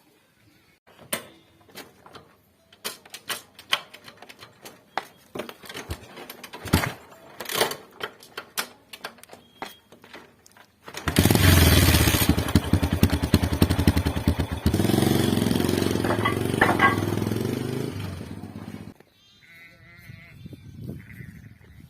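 An engine running loudly with an even, rapid pulse for about eight seconds, after a stretch of scattered clicks and knocks; it cuts off abruptly near the end.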